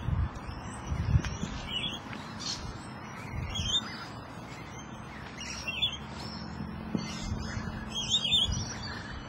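Birds chirping: short, repeated calls every second or two, over a low rumble with a few dull thumps.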